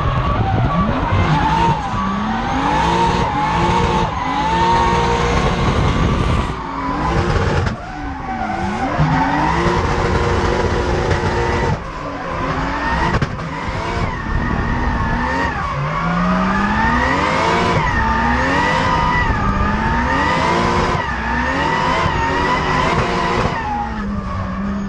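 Turbocharged Mercedes-Benz M104 straight-six drift-car engine revving hard, its pitch climbing and dropping again and again as the throttle is worked through a slide, with tyres skidding on the tarmac. The engine drops back briefly a few times.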